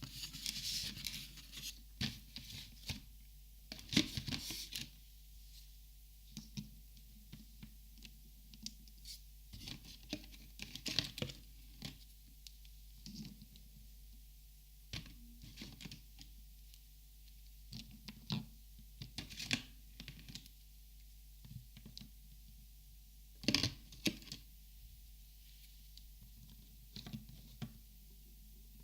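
Copic alcohol markers being handled and sorted: irregular clicks, taps and short rustles as the plastic markers knock together and are picked up and set down, with a louder flurry about four seconds in and another past the twenty-second mark.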